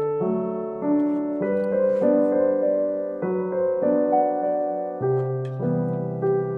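Background piano music: gentle notes and chords changing about every half second.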